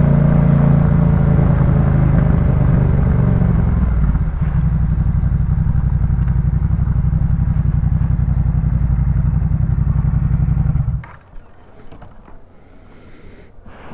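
Yamaha MT-07 parallel-twin engine running steadily through a Jeskap K4 full aftermarket exhaust. It cuts off suddenly about eleven seconds in, leaving a much quieter background with a few faint clicks.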